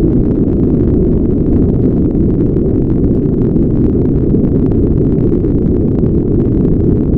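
Steady, unchanging brown noise: a deep, low rumbling hiss with its energy concentrated below about 500 Hz and little treble.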